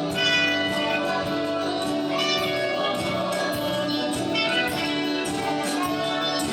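Live band playing a song, a full, steady mix of sustained instrument notes with light percussion.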